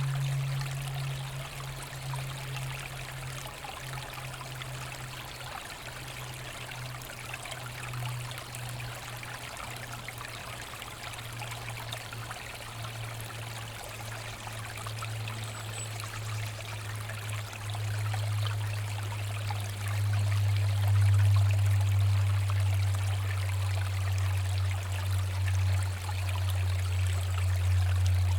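Forest stream flowing and trickling steadily. Under it runs a low hum that drops in pitch and gets louder about two-thirds of the way in.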